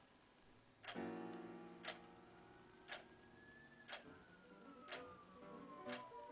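Faint clock ticking, one tick a second, under a soft music intro: a held chord comes in about a second in, and a gliding tone rises and then slowly falls through the second half.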